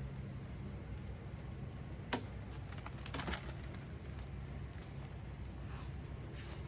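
Low steady hum with a few light clicks and taps, a sharp one about two seconds in and a small cluster about a second later.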